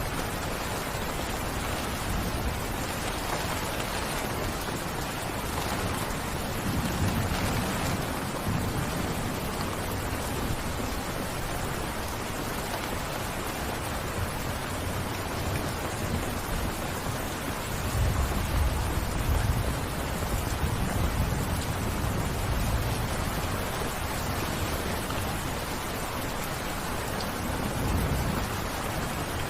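Steady rain falling, an even hiss, with low thunder rumbles rolling in about a quarter of the way through, for several seconds past the middle, and again near the end.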